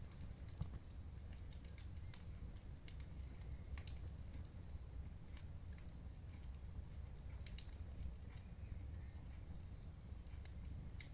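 Fire in a fireplace crackling: irregular sharp pops and snaps scattered over a low, steady rumble.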